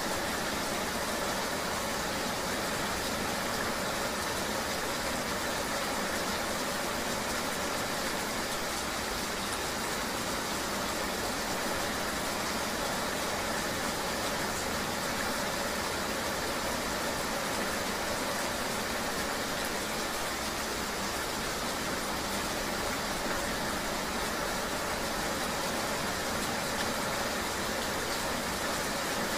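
Steady rain ambience with a vehicle's engine and road noise running underneath, an even wash of sound with no separate events.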